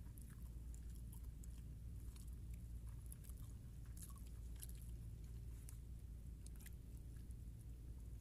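Faint chewing of a snack, with small crackles of a dry leaf wrapper being peeled and picked at by hand, over a low steady rumble.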